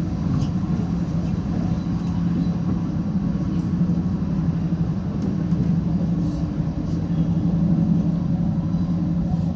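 730ML diesel train running, a steady low engine drone with rumble.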